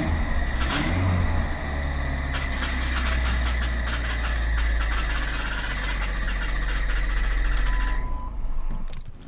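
Chrysler PT Cruiser engine idling with a steady, high-pitched belt squeak, then switched off about eight seconds in.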